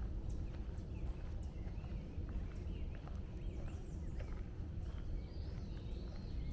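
Footsteps crunching along a woodland trail over a steady low rumble, with several songbirds chirping and singing repeatedly.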